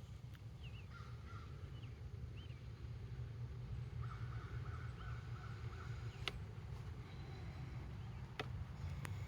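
A few short bird calls, repeated in a series, over a steady low rumble, with three sharp clicks in the second half.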